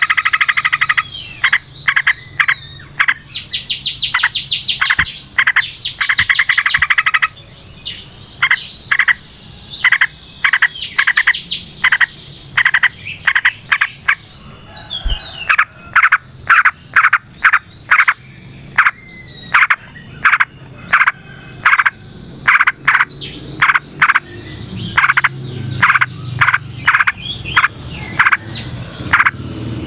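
Yellow-vented bulbul calling: fast rattling bursts of short bright notes, then a long string of separate short notes repeated about one to two a second.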